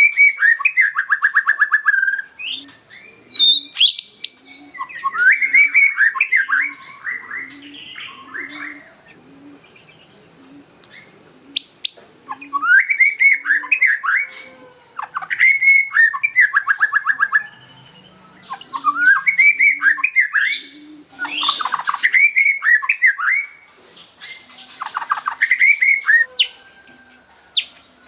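Young white-rumped shama singing in repeated phrases of rapid trilled notes, each phrase a second or two long and coming every couple of seconds. A steady high whine runs underneath throughout.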